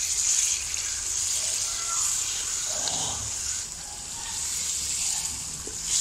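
Chicken pieces and tomato paste sizzling in hot oil in a kadai with a steady hiss, stirred with a wooden spatula.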